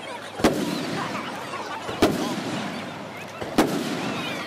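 Aerial fireworks shells bursting: three loud bangs about a second and a half apart, each fading out over about half a second.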